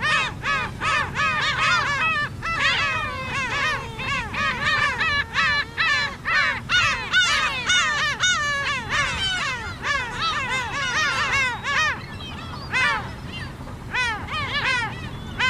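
A large flock of black-tailed gulls calling all at once: a dense, unbroken chorus of overlapping mewing calls, thinning slightly about twelve seconds in.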